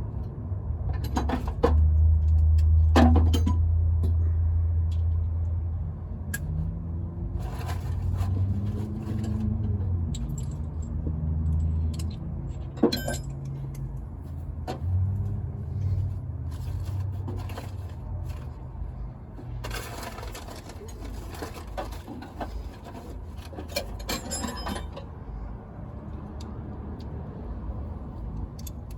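A low engine-like rumble that dies away after about twelve seconds, with scattered sharp metallic clinks and scrapes of tools on metal throughout.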